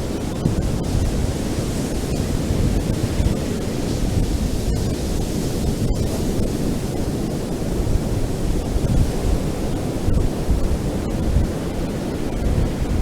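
Ocean surf washing on a beach: a steady low rushing with no distinct breaks, and wind rumbling on the microphone.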